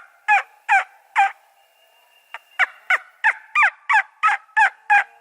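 Turkey yelping: a series of short, evenly spaced notes, each falling in pitch, about three a second. Three yelps come first, then a pause of over a second, then a run of about eight more.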